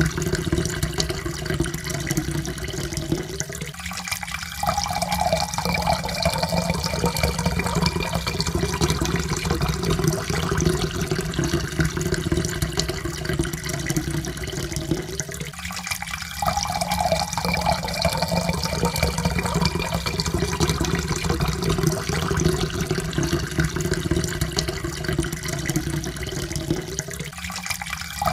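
Water poured in a steady stream into a cup, the pitch of the pour rising slowly as the cup fills. The pour breaks off and starts over about four seconds in, again about halfway, and once more near the end.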